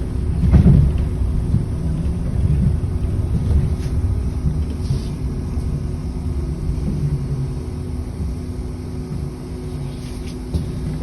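Route bus running, heard from inside: a steady low engine and road rumble with a faint steady hum, and a knock about half a second in. The rumble eases off gradually toward the end.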